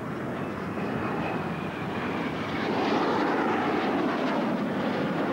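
Two BAe Hawk T1 jet trainers passing low and fast in an opposition crossing. Their jet engine noise swells to its loudest about three seconds in, with a falling pitch as they go by.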